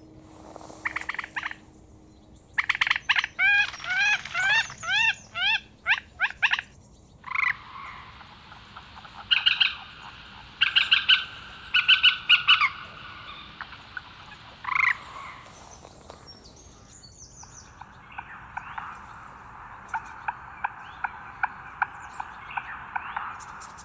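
Birds calling: a quick run of arched, rising-and-falling chirps, then clusters of sharp repeated calls, and in the last third a long, even rattling trill.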